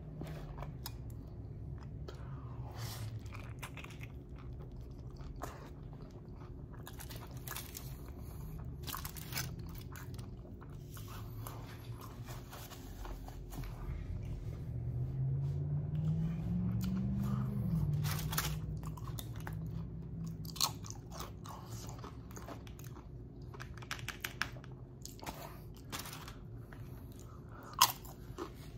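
Close-miked chewing and biting of a burrito, full of wet mouth clicks and crunches. Around the middle, a low drawn-out hum rises in pitch for a few seconds.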